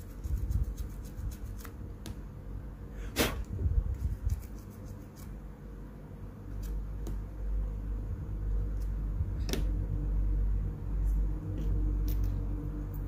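Handling sounds of small repair work on a phone at a workbench: scattered light clicks and taps, with a sharper click about three seconds in and another near ten seconds, over low rumbling bumps from handling that get stronger in the second half.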